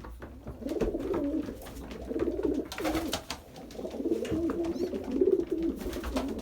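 Racing pigeons cooing in a loft: several low, wavering coos following one another, with a few light knocks or clicks among them.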